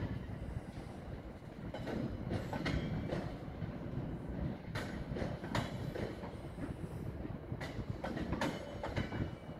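Freight wagons of an engineering train rolling through a level crossing: a steady rumble with wheels clicking over rail joints at irregular intervals.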